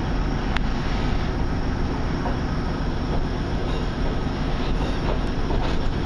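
Diesel passenger train running on the track, heard from inside the carriage: a steady rumble of engine and wheels, with two sharp clicks, one about half a second in and another near the five-second mark.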